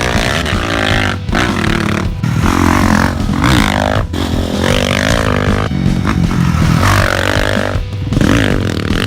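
Dirt-bike engines revving up and down again and again, each rev a rising and falling whine, with short breaks between revs.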